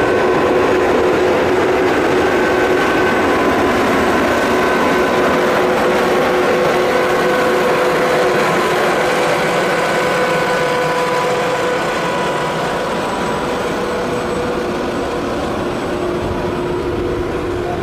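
EP2K electric locomotive and its passenger train pulling slowly away: a steady rolling rumble with several steady humming tones from the locomotive, growing gradually quieter as the coaches pass.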